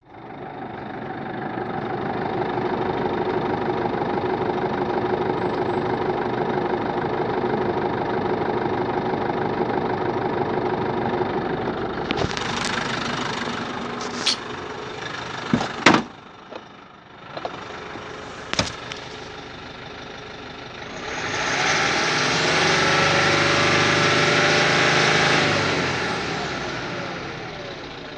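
2015 Nissan Navara NP300's 2.3-litre twin-turbo diesel idling steadily. About halfway through it drops quieter and several sharp clicks and knocks are heard. Near the end the engine is revved, held up for a few seconds, and eases back down.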